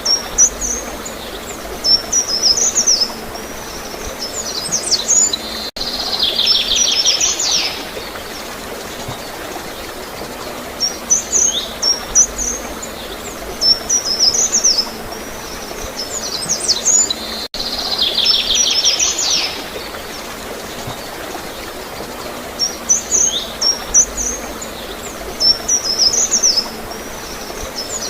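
Songbirds chirping in short high phrases, with a longer buzzy trill twice, over a steady wash of flowing water. The same sequence of calls repeats about every twelve seconds.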